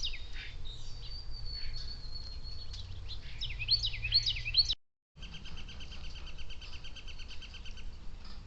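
Small songbirds singing: runs of quick up-and-down notes and a thin, steady high whistle. After a brief break there is a fast, even trill lasting about three seconds.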